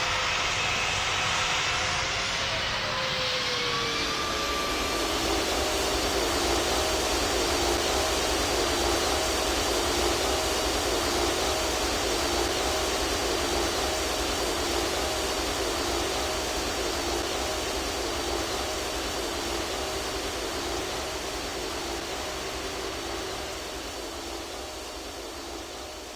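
An engine running with a whine, its pitch falling over the first few seconds and then holding steady with a throbbing note, fading slowly near the end.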